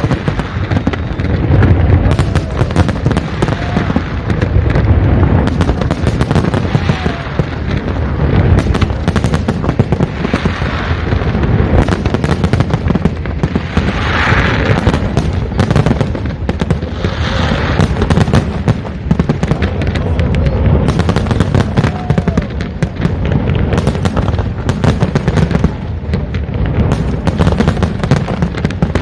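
New Year fireworks display going off without a break: many shells bursting in quick succession, with dense crackling between the bangs.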